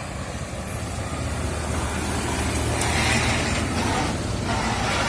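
Heavy truck's diesel engine running steadily, with road noise swelling and growing louder about three seconds in.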